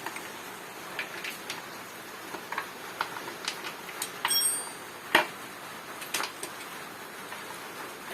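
Irregular light metallic clicks and taps, as from hand tools working on a small engine, the sharpest a little after five seconds, with a brief high squeak about four seconds in.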